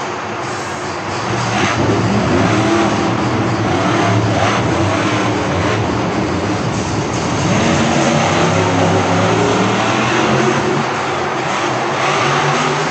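Monster truck engine running and revving, its pitch rising and falling, over loud arena noise.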